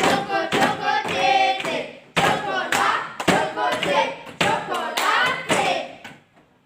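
Children singing a song together with rhythmic hand clapping; the singing and claps stop shortly before the end.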